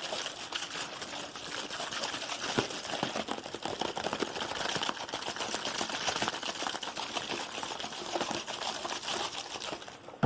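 Fast, aggressive ASMR tapping: a dense, rapid stream of clicky taps that stops abruptly at the very end.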